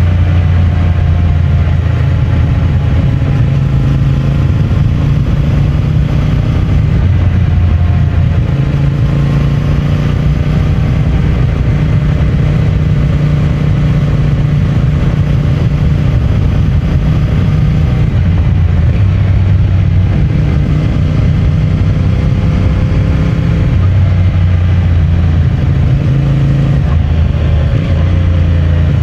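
CFMOTO 450MT's parallel-twin engine and stock exhaust running steadily under way. The engine note changes pitch several times as the throttle and gears change.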